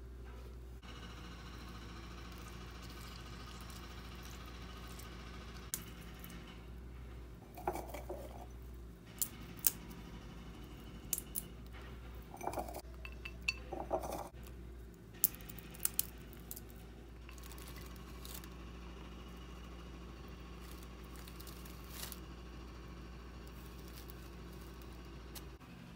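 Glass, dishes and cutlery clinking and knocking during breakfast preparation: a run of light, sharp clinks from about six to seventeen seconds in, over a steady low hum.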